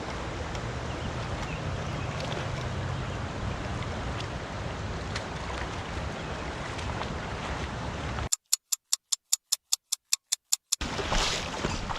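Steady rush of creek water with a low wind rumble on the microphone. About two-thirds through, the water sound cuts out and a quick run of evenly spaced sharp ticks, about five a second, plays over silence for a couple of seconds. Then the water comes back.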